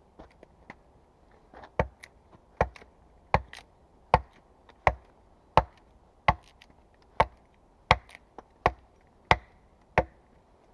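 Wood being chopped with an axe: a steady run of sharp, even blows, about three every two seconds, beginning after a few lighter taps.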